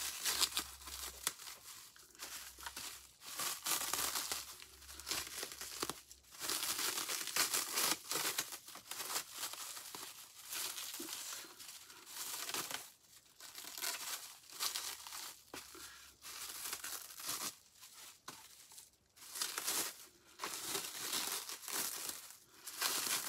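Packing material, newspaper and wrapping, being unwrapped and crumpled by hand: irregular bursts of crinkling and tearing.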